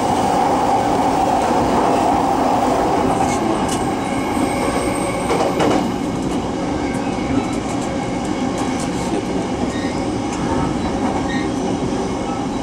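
Running noise heard inside a JR East E233-series electric train travelling at speed: a steady rumble of wheels on rail, easing slightly a little after halfway.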